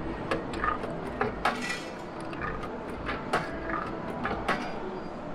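Irregular light clinks and knocks of hard objects being handled, about a dozen sharp ticks over a steady background hum.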